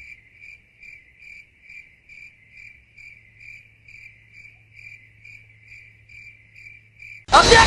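Cricket chirping sound effect: an even, steady run of short chirps, about two and a half a second, the stock 'crickets' cue for an awkward silence. Near the end the chirping stops and a loud, sudden burst of noise begins.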